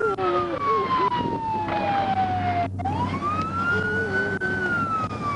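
Police car siren on wail, sliding slowly down in pitch, climbing back up about three seconds in, then falling again near the end.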